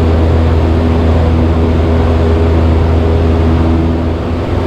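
Cessna 172's piston engine and propeller running steadily, heard inside the cockpit as a loud, even drone. About four seconds in the low drone eases slightly.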